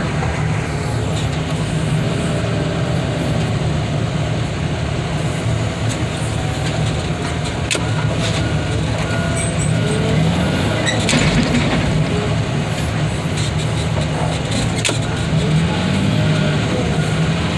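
Heavy machinery engine running steadily at a loud, even level, with a couple of metallic clanks about eleven and fifteen seconds in.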